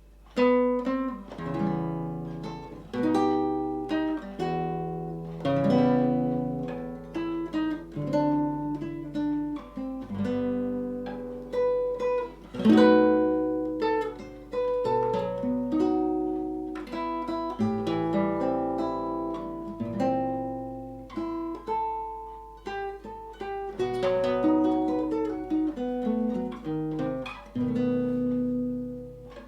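Solo acoustic guitar playing a Russian Gypsy song, with plucked melody notes over chords and some strummed passages.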